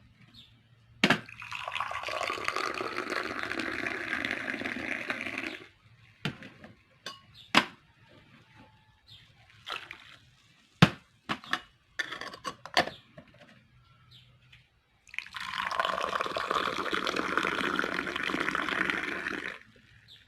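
Liquid being poured twice, each pour a steady stream lasting about four seconds, with sharp clicks and light knocks in between.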